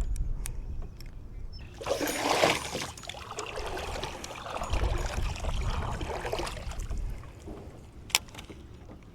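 Water splashing and trickling against a kayak, loudest in a burst about two seconds in and again midway, over a low rumble; a single sharp click near the end.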